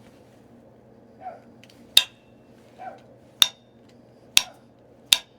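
Flintknapping: a stone point being struck to knock off flakes, four sharp ringing clicks about a second apart, with two softer knocks before the first ones. A fan hums steadily underneath.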